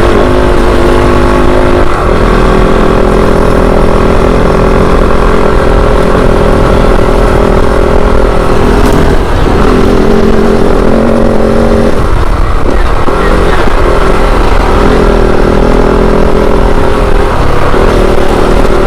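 Dirt bike engine running while riding, loud and steady, its pitch shifting a few times with throttle changes, notably about 9 and 12 seconds in.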